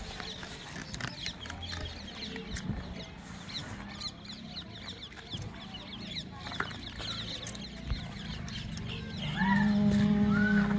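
Birds calling: many quick, high, falling chirps through the first half, then a few arched clucking calls near the end. A loud steady low hum comes in near the end.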